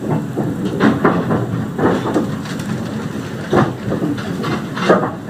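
Narrow-gauge train running along the track: a steady rumble of the carriage, with the wheels clicking over rail joints about once a second.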